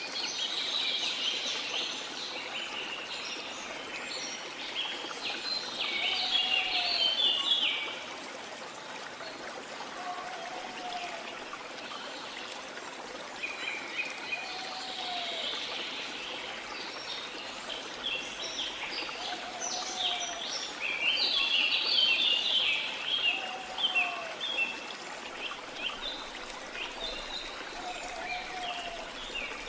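Rainforest ambience: a steady rush of flowing water under bursts of busy bird song, with a short low call repeating about every three and a half seconds.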